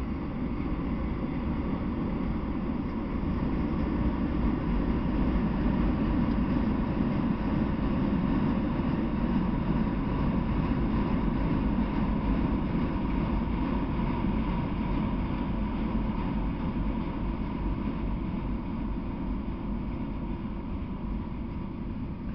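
Freight train of autorack cars rolling past: a steady rumble of wheels on the rails that grows louder over the first few seconds and eases toward the end.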